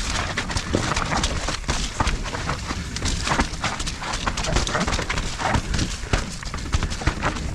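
Mountain bike riding down a muddy trail: a rapid, irregular clatter of knocks and rattles from the bike over rough ground, over a steady rushing noise from the tyres.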